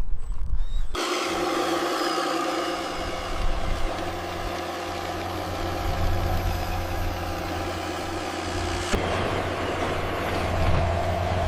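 Truck engine sound idling steadily. It starts abruptly about a second in and shifts in tone near the end.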